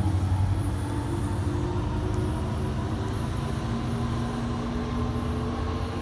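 Commuter train locomotive approaching along the platform track: a steady low hum with several faint steady whining tones over rolling noise.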